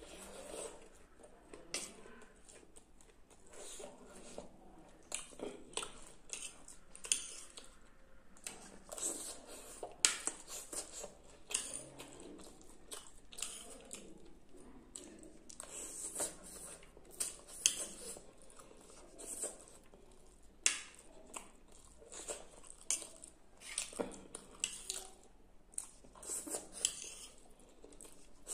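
Close-up eating sounds: a man chewing a mouthful of instant Maggi noodles and macaroni in short, irregular smacks, with a metal fork now and then clicking and scraping on the plate.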